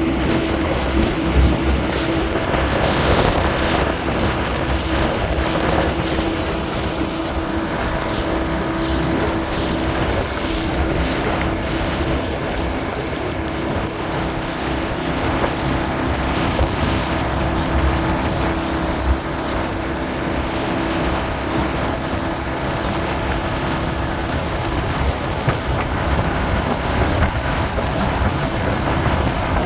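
Boat motor running steadily under way, with wind buffeting the microphone and choppy water around the hull.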